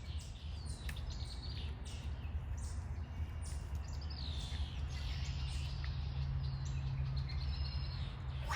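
Small wild birds chirping, with many short high calls repeating through, over a steady low rumble.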